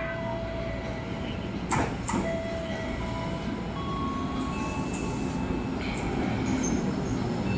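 Train running on the rails: a steady rumble with a low hum that grows louder from about four seconds in, and two sharp clicks about two seconds in.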